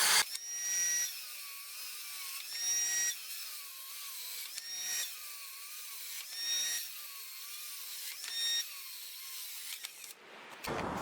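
Bauer 20V cordless circular saw cutting out abruptly just after the start. This is followed by about five short, high-pitched motor whines roughly two seconds apart as the motor briefly spins up and stops each time, with the 1.5 Ah battery nearly drained. The owner calls it a really weird sound.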